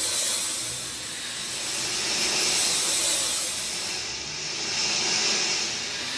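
Rain falling: a dense, steady hiss that swells and eases every two or three seconds.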